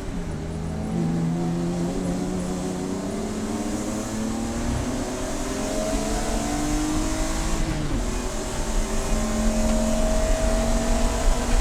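Race car engine pulling hard, its pitch climbing slowly through the gear. It drops briefly about eight seconds in, a shift or lift, and then climbs again.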